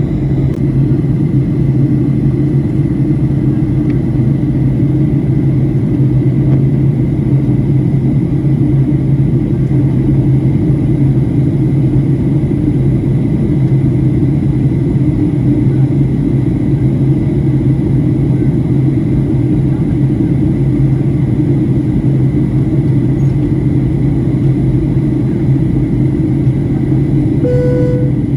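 Steady, loud cabin noise of an airliner in flight: engine and airflow running without change, with a low hum. Near the end a short cabin chime sounds once.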